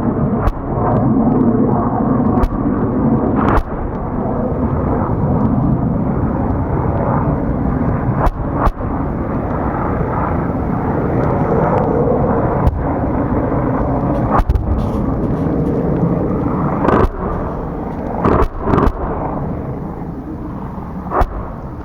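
Steady helicopter rotor and turbine noise, broken by about ten sharp cracks at irregular intervals.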